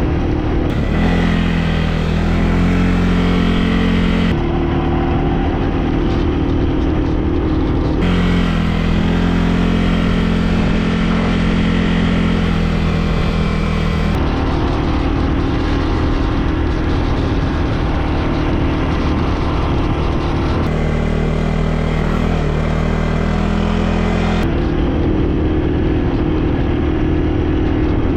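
Quad bike engine running hard under way, its pitch stepping up and down every few seconds, with steady wind and riding noise.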